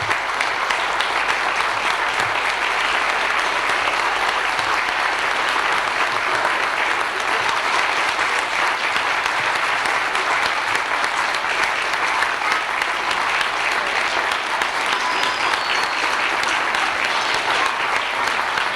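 Audience applauding steadily, a dense sustained clapping with a few whistles near the end, the sign of a performance's curtain call.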